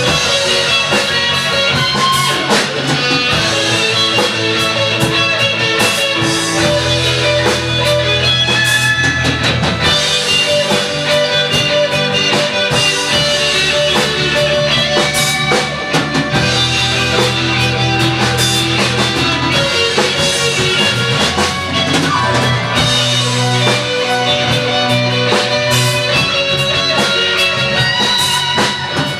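Live band playing rock music: guitar over a drum kit, steady and loud throughout.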